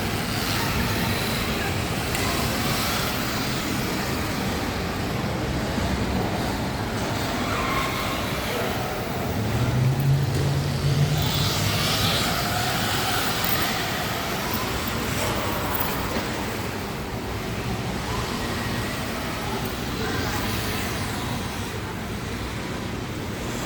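City street traffic noise, with one vehicle's engine passing more loudly about ten seconds in.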